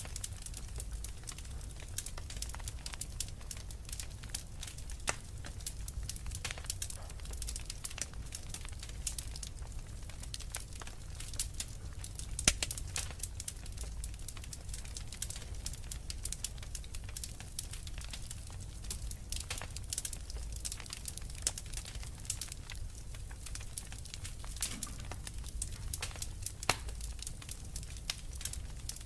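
Wood fire burning in a fireplace, crackling with frequent small irregular pops over a steady low rumble of the flames. One pop is louder, about twelve seconds in.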